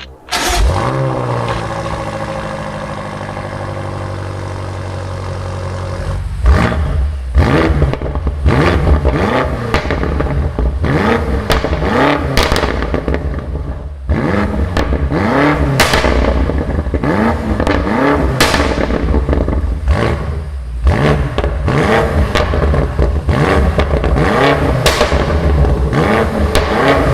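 BMW M5 Competition's twin-turbo V8 flares and settles to a steady idle, then from about six seconds is revved repeatedly in short blips, with sharp crackles from the exhaust between revs.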